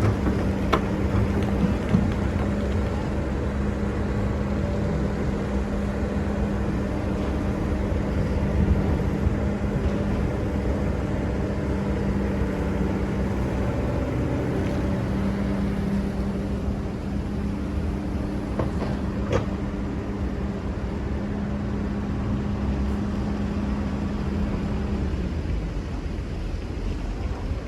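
Excavator engine running steadily, with a few short sharp knocks; its steady tone drops away near the end.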